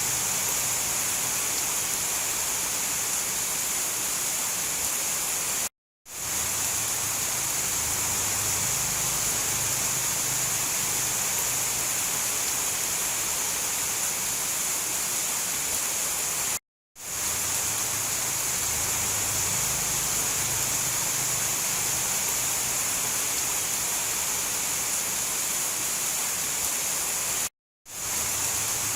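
Steady hiss of heavy rain. It cuts out to silence for a moment three times, about every eleven seconds, and fades back in each time, as an audio loop restarts.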